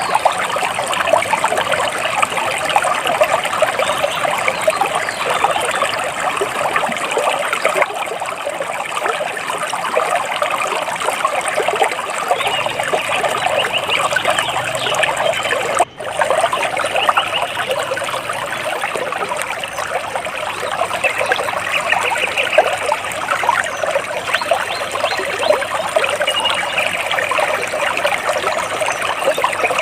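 Water splashing and trickling steadily, a continuous fizz of small splashes.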